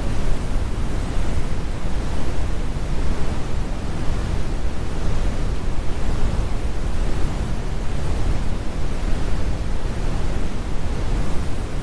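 Steady, computer-generated brown noise: an even, deep rumble with most of its weight in the low end and the highs rolled off.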